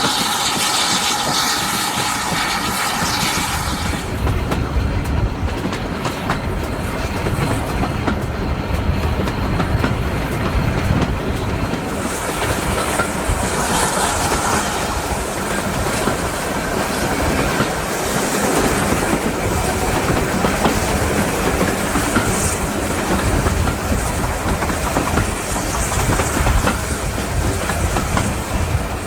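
Heritage steam train under way: its carriage wheels running on the rails with a steady rumble. A few faint steady tones sound over it in the first few seconds, after which the rumble grows stronger.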